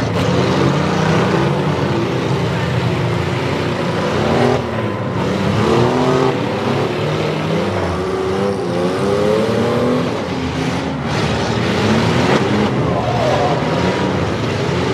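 Several demolition derby minivans, mini trucks and SUVs running at once, their engines revving up and down over one another in a loud, continuous mix.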